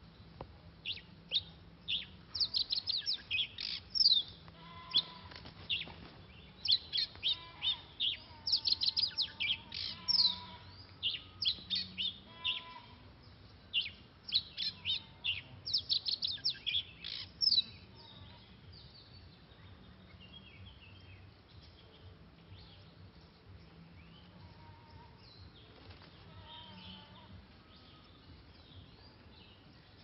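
Oriental magpie-robin calling: rapid runs of sharp, high, falling chirps in bursts through the first half, then fainter, scattered calls.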